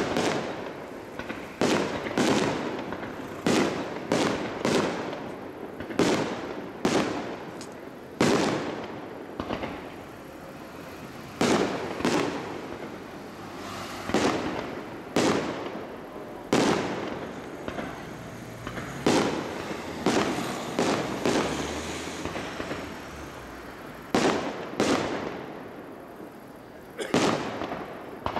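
Aerial firework shells bursting overhead in a rapid series, a sharp bang every second or so, each followed by a short rolling echo.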